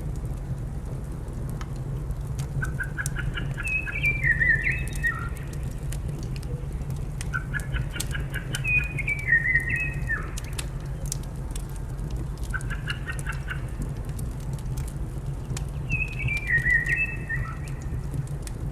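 A songbird sings the same short phrase four times, a few seconds apart: a run of quick repeated notes and then a stepped, falling trill. Behind it a wood fire crackles with scattered pops over a steady low rumble.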